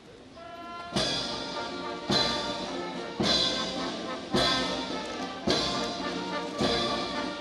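Military brass band playing a march, a held brass note leading into heavy, evenly spaced drum beats about once a second under sustained brass chords.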